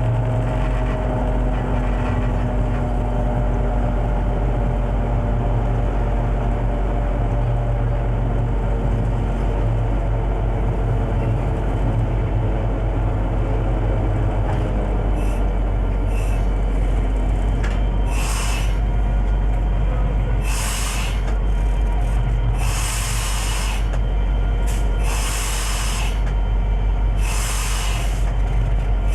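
Diesel locomotive running with a steady heavy drone, its pitched tones sliding slowly downward over the first half as the engine winds down. From about two-thirds of the way in, short sharp hisses come and go several times over the drone.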